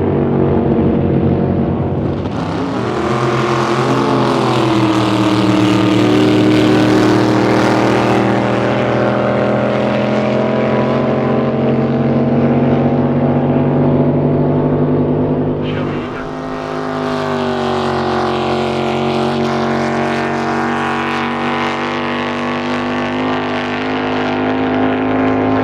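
Drag boat engine running at low throttle with a steady, deep multi-toned note. Its pitch wavers briefly a few seconds in, and the sound shifts abruptly at about two seconds and again past the middle.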